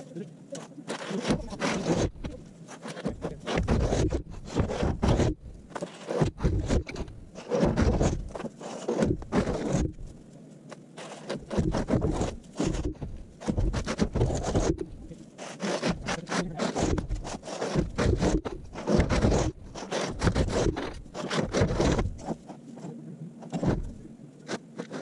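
Irregular scraping and rubbing noises, one stroke after another about once or twice a second.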